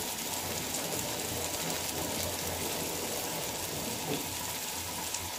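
Malabar spinach seeds frying in oil with a steady sizzle; the seeds are nearly roasted, their moisture cooking off.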